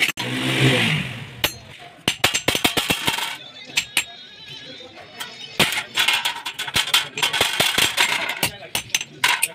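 Irregular sharp metal clanks and taps as metal stove parts are struck and handled, with voices in the background.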